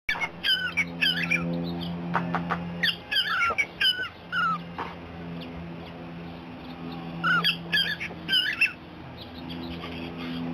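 Cockatiel chirping in groups of short, swooping calls, over a steady low hum.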